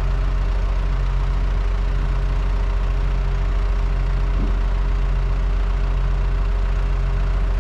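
Farm loader's engine running steadily at low speed, with a slow regular swell in its hum about once a second.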